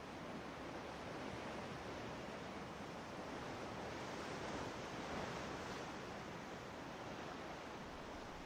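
Ocean waves washing onto a rocky shore, a steady rush of surf that swells and peaks about five seconds in, with some wind on the microphone.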